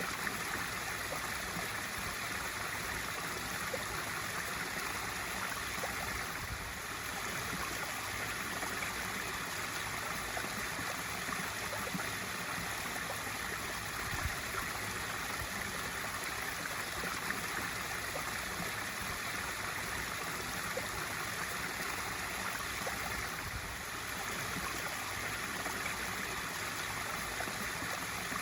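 Pool waterfall: a steady sheet of water pouring and splashing into the pool, a constant rushing with small irregular splashes.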